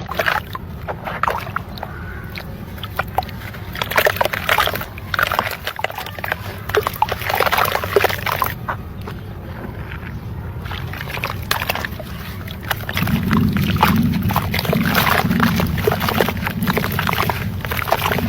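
Dry cement blocks crumbled by hand into water: irregular crunching crackles with sloshing and splashing. From about two-thirds of the way in, a low steady rumble runs underneath.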